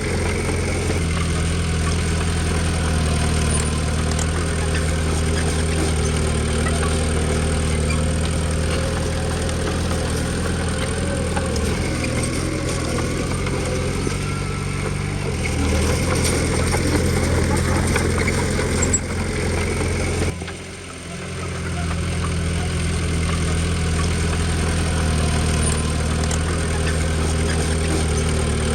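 Komatsu D20P bulldozer's diesel engine running steadily, with a short dip in loudness about two-thirds of the way through.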